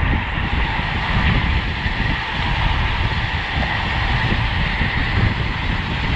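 Wind rushing and gusting over the microphone of a road bike's onboard camera at racing speed, over a steady road-noise hiss.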